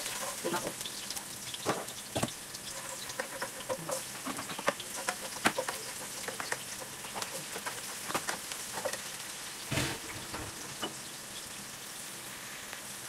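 Chopped garlic and onion sizzling in oil in a nonstick wok while a spatula stirs them, scraping and tapping against the pan, with a few louder knocks.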